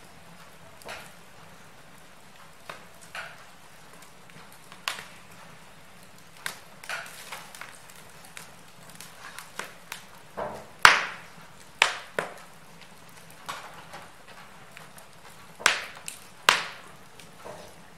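Wood fire crackling in a fireplace: irregular sharp pops and snaps over a faint steady hiss, with a few louder pops in the second half.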